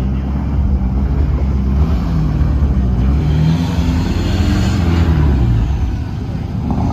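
A truck engine revving hard, its pitch climbing and falling again and again, with a rising hiss in the middle and a short easing-off near the end.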